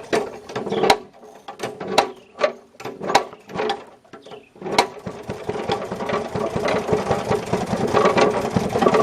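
Maytag Model 92 single-cylinder two-stroke engine restarting after a stall: a few irregular knocks as it is turned over, then about five seconds in it catches and runs with fast, even firing. The exhaust goes into a muffler submerged in a bucket of water, which the owner thinks is choking its flow and making it run poorly.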